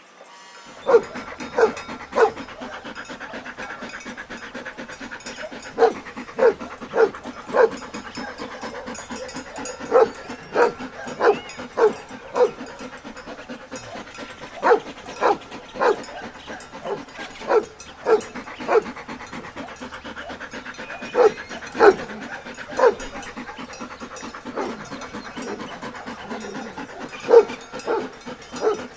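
A dog barking over and over in quick runs of two to four sharp barks, over a steady background hiss.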